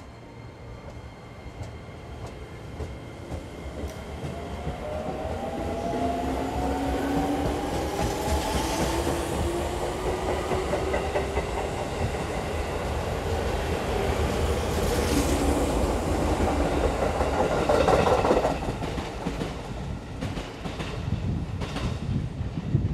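205 series electric commuter train pulling out of the station and gathering speed: a motor whine rises in pitch over several seconds over a growing low rumble. Later the cars run past and the wheels clack over rail joints.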